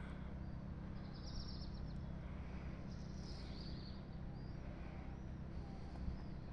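Small birds chirping, with a couple of short high trills, over a steady low rumble.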